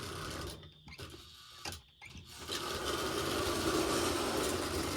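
Postwar Lionel No. 1666 toy steam locomotive's electric motor and gears running on the track, coming in fits with drop-outs for the first couple of seconds, then whirring steadily from about halfway in.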